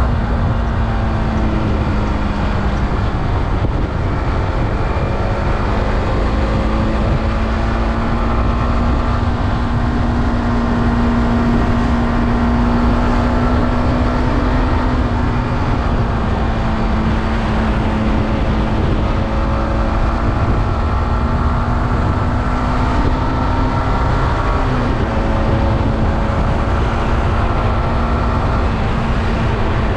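Yamaha R15M's 155 cc single-cylinder engine running through its stock exhaust at a steady cruising pitch, under constant low rushing noise. The pitch dips slightly about 3 seconds in and steps down about 25 seconds in.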